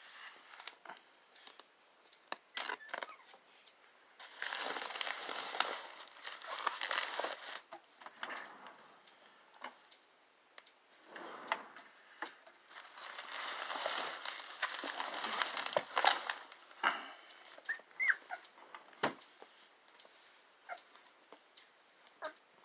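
Pitbull puppies whimpering and moving about, louder in two stretches of a few seconds each, with small clicks scattered between and a short whine near the end.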